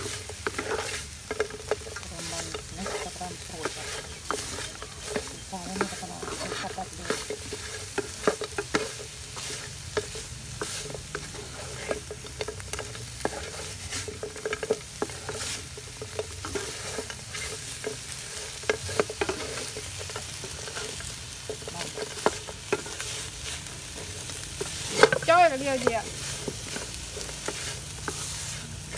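Chicken pieces sizzling in a frying pan, stirred and scraped with a wooden spatula, with frequent clicks of the spatula against the pan. Near the end a brief call falls in pitch.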